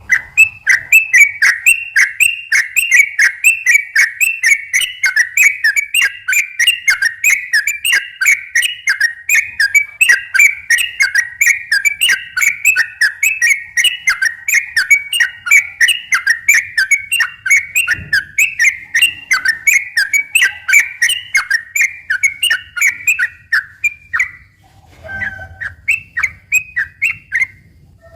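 Yellow-vented bulbul (trucukan) singing its long rapid 'ropel' song, a steady run of quick repeated whistled notes, several a second. The song breaks off briefly near the end, then a few more notes follow.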